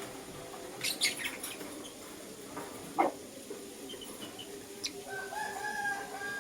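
Young lutino lovebirds calling: a quick cluster of sharp, high chirps about a second in, one loud call sliding down in pitch around three seconds in, and a longer held call near the end.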